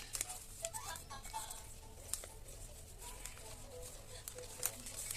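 Handling noise: scattered sharp clicks and light crackles, several a second and uneven, over faint background voices.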